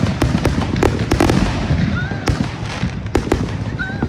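Consumer fireworks going off in a rapid, dense barrage: many sharp bangs and crackles a second over a continuous low rumble, easing a little near the end.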